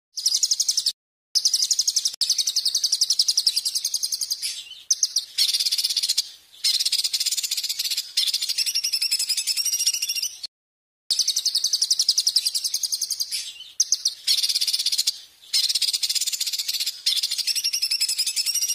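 Recorded songbird song of the kind used as a 'masteran' tutor track: long phrases of very fast, high trilled notes, one after another. The recording drops abruptly to total silence twice, about a second in and near the middle, as at edit cuts.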